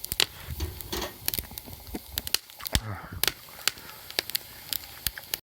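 Wood campfire crackling, with irregular sharp pops and snaps. A couple of short voice-like sounds come in about a second in and again near the three-second mark.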